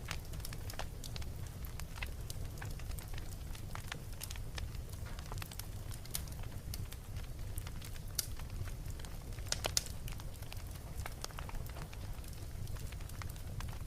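Wood fire crackling in a fireplace: a steady low rumble of flame with scattered pops and snaps, a few sharper pops a little past the middle.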